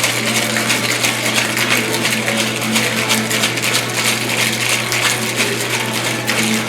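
Cocktail shaker with ice being shaken hard and continuously, a fast steady rattle of ice against the tin. This is the wet shake of an egg-white cocktail after the dry shake, kept up longer to build the foam. A steady low hum runs underneath.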